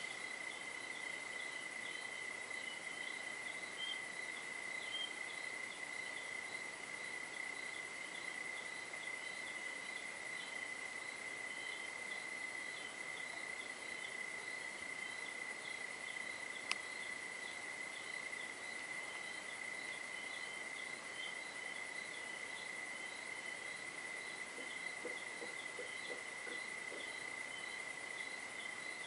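Night insect chorus: a steady, unbroken cricket trill with a faster, rhythmic chirping above it. A single sharp click about midway, and a brief run of low pulses near the end.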